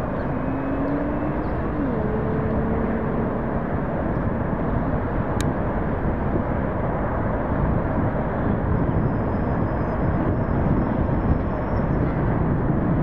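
Diesel freight train running, a steady rumble and rush of rolling noise. An engine tone in it drops in pitch about two seconds in.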